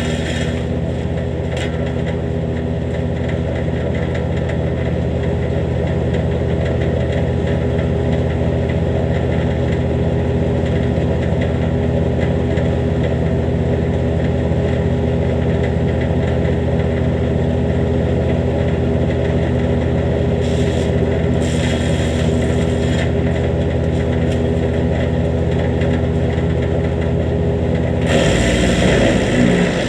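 Jansen GTS-1500 wood chipper, its bed knife freshly adjusted, running steadily at speed. Near the end the engine note drops and a louder rushing, grinding noise comes in as brush is fed through and chipped.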